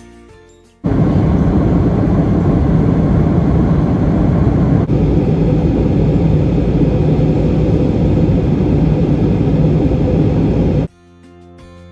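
Jet airliner noise: a loud, steady rush heaviest in the low end, cut in suddenly about a second in and cut off suddenly near the end, with a brief break around the middle. Background music plays briefly at the start and end.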